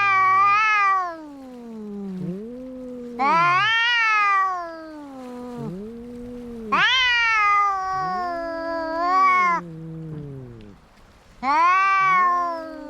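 Two cats in a fight standoff caterwauling: long, loud, high wailing yowls, about four in all, each one wavering and sliding down at its end, traded with a lower, drawn-out moaning yowl that fills the gaps and overlaps them.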